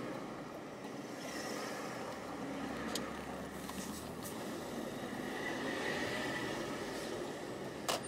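Audi A4 2.0T turbocharged four-cylinder engine running steadily with a faint whine, swelling a little in the middle; a sharp click comes just before the end.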